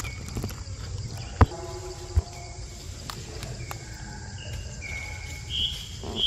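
Steady high-pitched insect chorus with two sharp knocks early on. A few short, high whistle-like chirps come in the second half.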